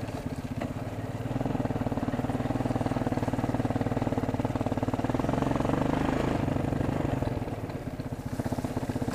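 A four-wheeler (ATV) engine running steadily at low speed under light throttle, with an even firing pulse. It eases off briefly near the end and then picks up again.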